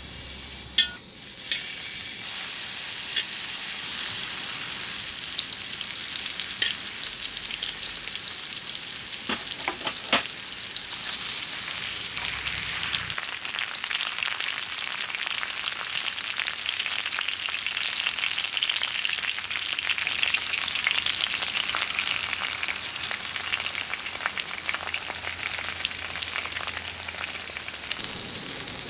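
Thin-sliced pork belly sizzling and frying in a hot pan, rendering its fat to stand in for cooking oil. A sharp click sounds about a second in and a smaller one near the middle.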